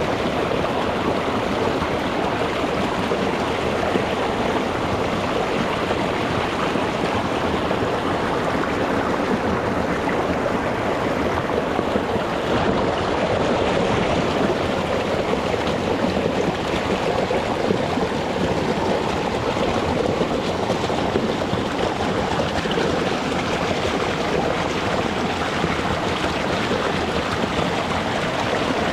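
Small rocky mountain stream flowing over stones, a steady rushing and burbling of water.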